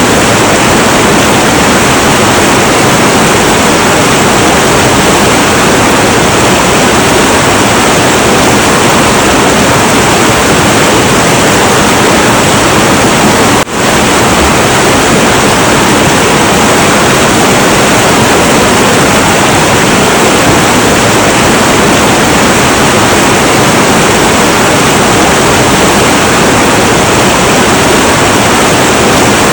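Heavy, turbulent river water rushing in a steady, dense roar. About halfway through, the sound dips for a moment.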